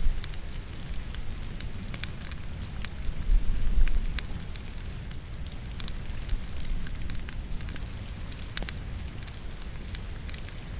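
Wood fire in a fireplace crackling, with many sharp pops and snaps over a steady low rumble, and rain as a soft hiss beneath. The low rumble swells louder for about a second, around three seconds in.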